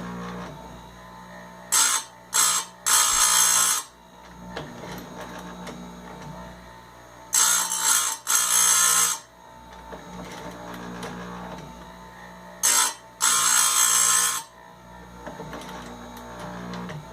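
Electric chainsaw chain grinder running, its motor humming steadily. Three times, roughly every five seconds, the wheel is brought down on a cutter tooth with a brief touch or two and then a harsh grinding of one to two seconds.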